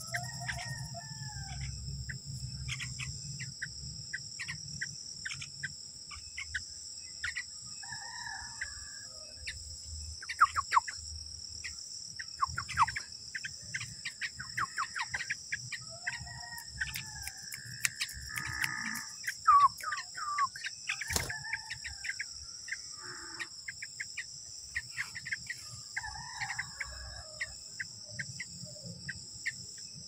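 Short, sharp bird chirps repeating on and off, with chickens clucking now and then in the background, over a steady high-pitched insect drone.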